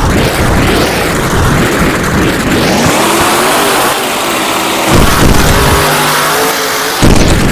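Grave Digger monster truck's supercharged V8 engine revving hard, its pitch rising and falling, with sudden louder surges about five seconds in and near the end.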